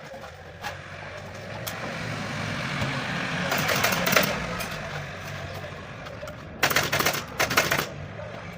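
A steady low machine hum, such as a workshop air compressor running, with a hiss swelling and fading in the middle. About seven seconds in comes a quick run of sharp clicks lasting about a second, typical of a pneumatic staple gun fastening upholstery fabric.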